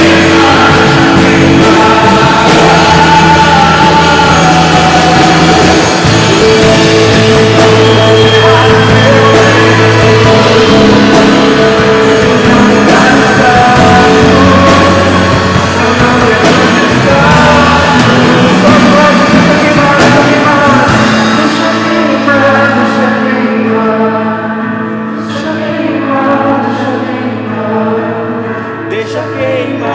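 Live worship band playing rock-style praise music with singing. About two-thirds of the way in, the drums and bass drop out, leaving softer sustained chords.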